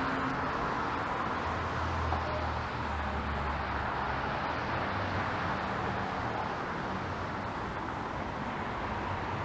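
City street traffic: passing cars with a steady hiss of tyres on wet pavement, and an engine rumble that swells from about a second and a half to four seconds in.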